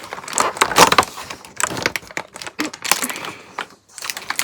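Cardboard advent calendar door being opened and the small item inside handled: a run of irregular clicks, cracks and rustles.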